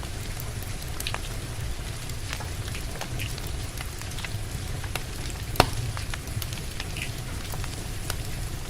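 Wood fire crackling with scattered sharp pops, one loud pop a little past the middle, over a steady hiss of rain and a low rumble.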